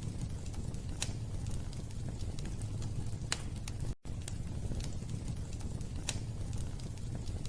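Wood fire burning in a fireplace: a steady low rumble of flames with scattered sharp crackles and pops. The sound cuts out for an instant about halfway through.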